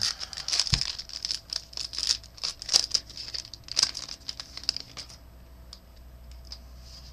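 A trading-card pack wrapper crinkling and tearing as it is opened by hand, with quick crackles and rustles that die down after about five seconds.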